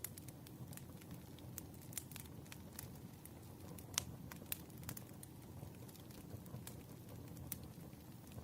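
Wood fire crackling: irregular sharp pops and snaps over a low steady rumble, with the loudest pop about four seconds in.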